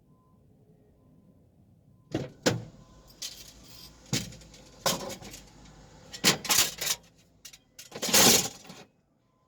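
Clattering and metallic rattling in a run of separate knocks and jangles, starting about two seconds in, with the loudest clatter near the end.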